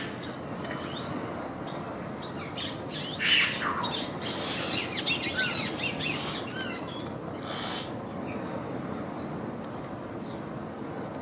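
Several birds chirping and calling in short, quick calls that cluster in the middle and thin out near the end.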